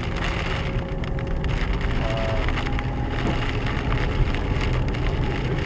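Dense crackling patter of hail, heard inside a moving four-wheel-drive vehicle, over a low rumble of engine and road.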